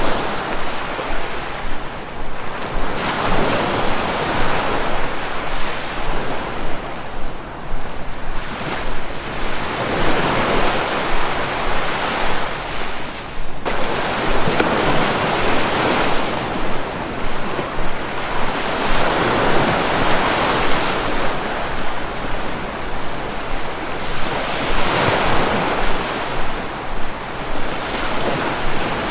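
Sea waves breaking and washing ashore, one surge every few seconds, with a steady hiss of surf between them.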